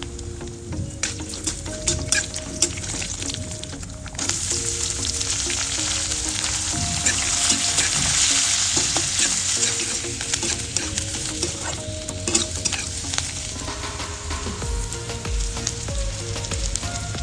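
Coconut pieces and chopped onions sizzling in hot oil in a metal kadai, with a steel spatula scraping and stirring against the pan. The sizzle gets louder about four seconds in.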